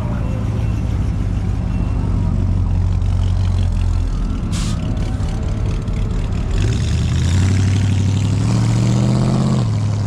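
Car engine running close by, its low note climbing about two-thirds of the way through and dropping back near the end.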